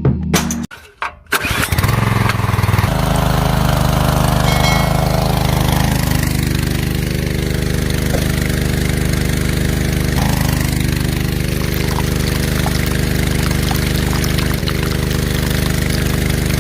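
A mini diesel engine starting about a second in with a few sharp clicks, then running steadily at an even speed.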